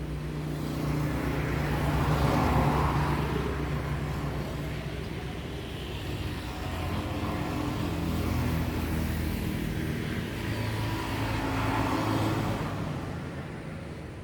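Road vehicles passing by, engines swelling and fading: one passes loudest about two and a half seconds in, and another near the end.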